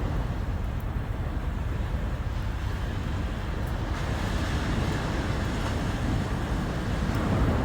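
Sea waves washing in, swelling near the end, over a steady low rumble of wind on the microphone.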